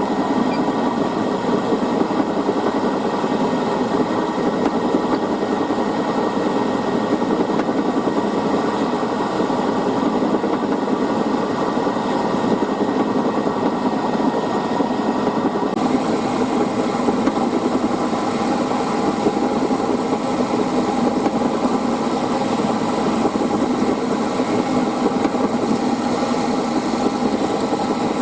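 Machine-tool spindle running steadily while drilling holes in a fixture plate; the higher-pitched part of the sound shifts about sixteen seconds in.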